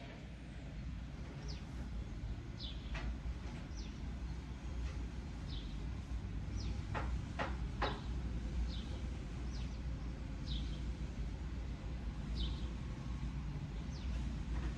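Outdoor background sound: a low, steady rumble, with a small bird giving short, falling chirps about once a second. Three quick clicks come a little past halfway.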